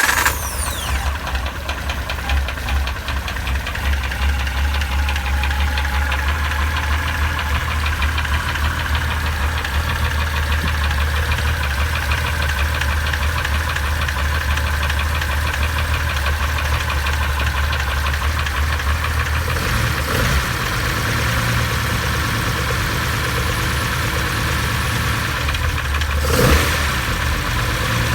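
Nissan 230 Cedric's modified L28 2.8-litre straight-six idling just after starting, a steady running note. Its pitch steps up a little about two-thirds of the way through, with a short blip near the end.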